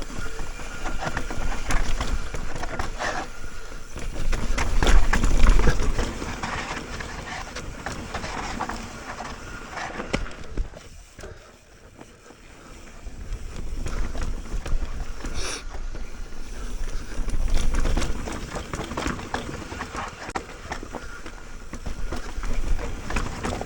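Mountain bike riding down a dirt trail: tyres on dirt and the bike rattling over bumps, with wind rushing over the microphone. It eases off briefly about halfway, then picks up again.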